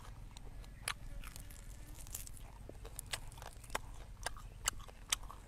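Close-miked chewing of roast chicken: faint, irregular sharp clicks and crunches from the mouth.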